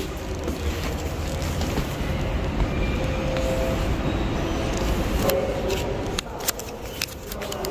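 Steady low rumble and hiss of a train standing at a station platform, with several sharp clicks and knocks in the last few seconds as a pram is pushed along.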